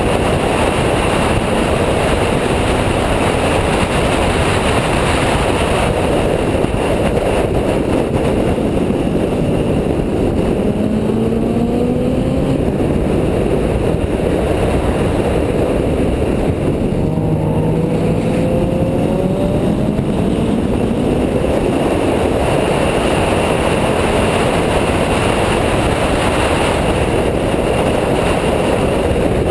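Renault Mégane R26.R's turbocharged four-cylinder engine pulling hard on track, its pitch climbing through the revs several times, under heavy wind and road noise.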